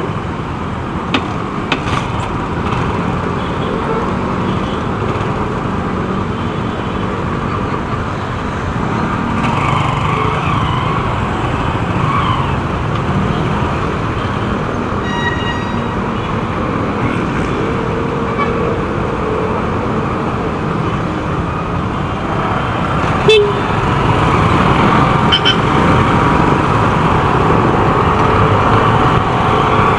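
Steady road and traffic noise while riding a motorcycle through city traffic. A short horn beep sounds about halfway, and a sharp knock a little later.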